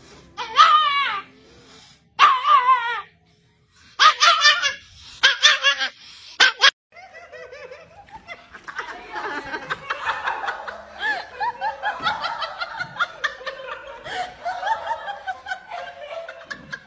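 A pet's short, high cries that rise and fall, several in a row. After a sudden cut comes a long stretch of laughter.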